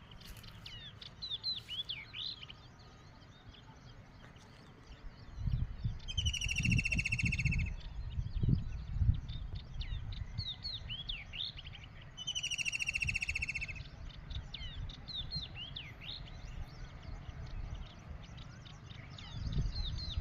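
Wild birds chirping with many short notes. Twice, a bird gives a rapid trill of evenly repeated notes lasting about a second and a half. A low rumble runs underneath, loudest in the middle.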